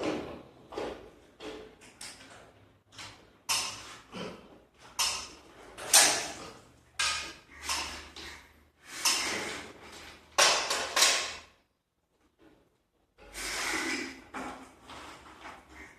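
Irregular knocks, scrapes and rattles, like door or drawer parts being handled and moved, with a silent break about twelve seconds in.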